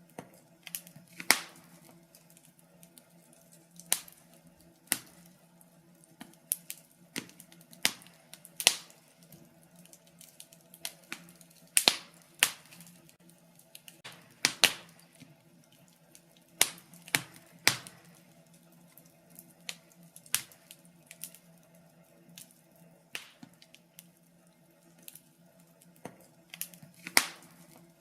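Wood fire crackling in a fireplace: irregular sharp pops and snaps, a few of them much louder than the rest, over a faint steady low hum.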